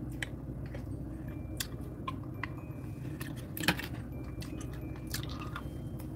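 A person chewing and eating close to the microphone: irregular wet mouth clicks and smacks, one louder about three and a half seconds in, over a steady low hum.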